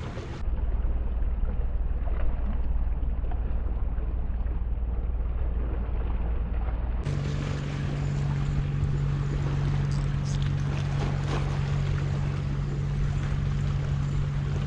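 Wind buffeting the microphone with a heavy low rumble. About seven seconds in, the sound cuts to a steady low motor hum over the wind.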